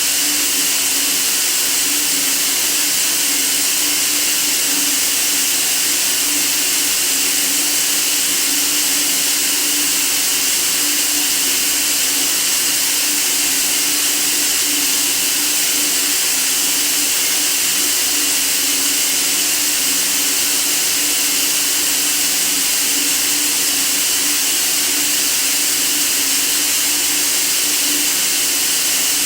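Steady white noise: an even, unchanging hiss, strongest in the upper range, with a low steady hum underneath.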